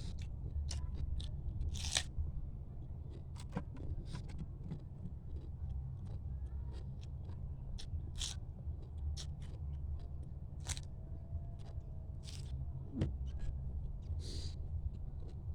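Mud crab shell being bitten and chewed, with irregular sharp cracks and crunches, over a steady low hum.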